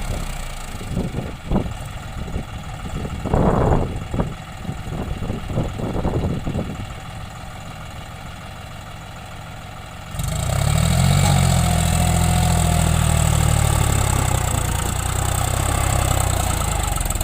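John Deere 5050D tractor's three-cylinder diesel engine running. For the first ten seconds it is fainter, with scattered knocks and rustles over it. About ten seconds in it abruptly becomes much louder and steadier, with a brief rise and fall in engine pitch shortly after.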